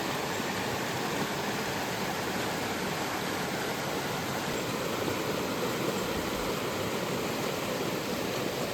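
Creek water rushing steadily, an even unbroken wash of flowing water.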